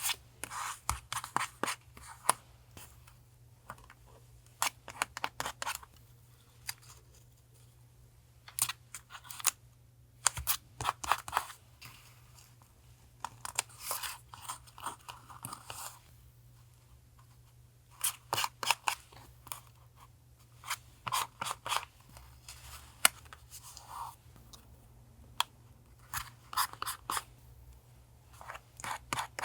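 Scissors cutting paper in short runs of snips, with pauses between the runs.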